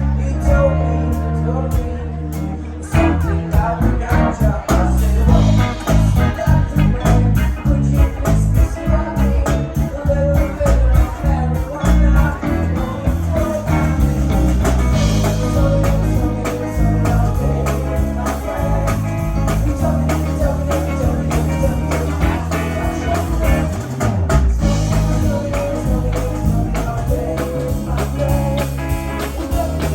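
Live band music: guitar, bass and drums with a singing voice, the drums coming in about three seconds in.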